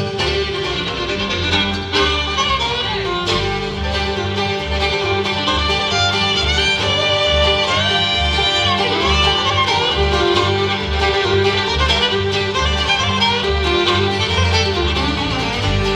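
Bluegrass band playing an instrumental break between sung verses: fiddle in front, with guitar, banjo and upright bass behind it and the bass pulsing steadily underneath.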